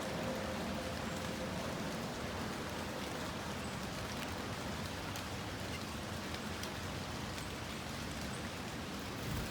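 Steady rain falling, with a few faint sharper drips.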